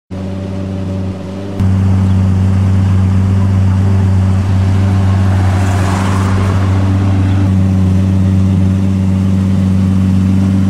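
Lamborghini V12 idling steadily, with a step up in level about a second and a half in. A brief rush of noise sounds near the middle.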